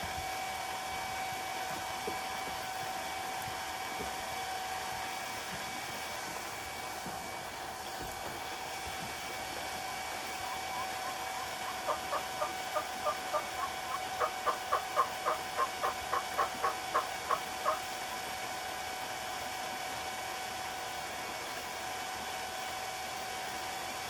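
Electric water pump running with a steady hum and whine while filling a goose pool. Partway through, geese honk in a quick run of about fifteen calls, a little over two a second.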